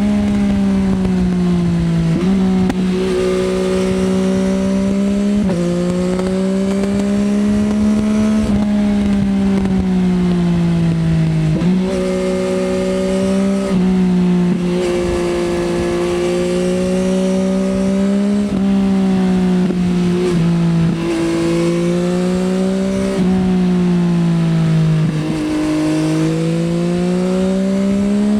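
Yamaha XSR900's inline-three engine through an Akrapovič Racing Line exhaust, ridden hard. The engine note climbs in pitch again and again, stepping down sharply at each gear change, with stretches where it falls away as the bike slows.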